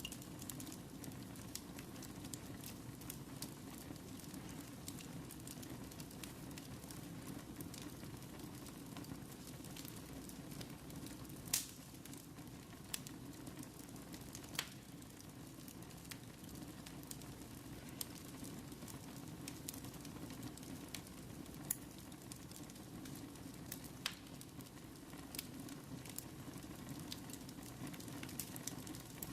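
Wood fire burning: a steady low rush of flames with scattered sharp crackles and pops, the loudest pop about twelve seconds in.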